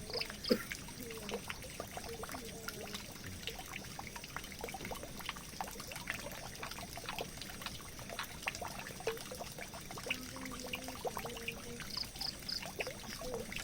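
Water pouring and trickling into a drain, steady throughout, with many small splashes and drips.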